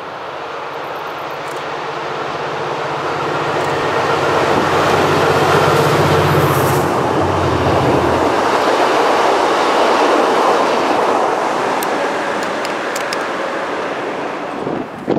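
Diesel-hauled V/Line passenger train passing while climbing a grade. The locomotive's engine drone builds to its loudest about five to seven seconds in, then gives way to the steady rumble and clicking of the carriage wheels on the rails, easing off near the end.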